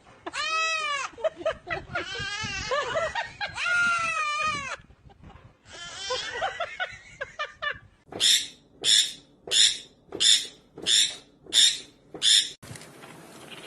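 Animal calls: several drawn-out, wavering cries, then a run of seven short, sharp calls about two-thirds of a second apart.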